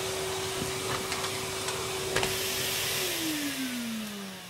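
Numatic Henry canister vacuum cleaner running steadily, with a few sharp clicks, then switched off about three seconds in, its motor whine falling as it spins down.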